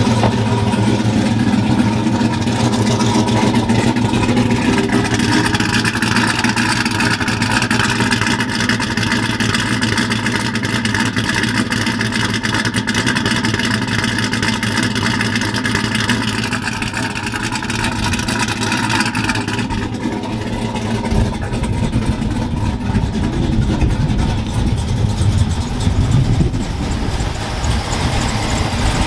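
A pickup truck's V8 engine running loudly at idle, just started after a misfire in cylinder 7 was traced to a bad injector and fixed.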